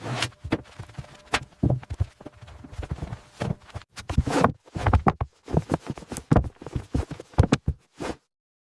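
A run of irregular knocks and clatters, some with a dull thud, cutting off suddenly about eight seconds in.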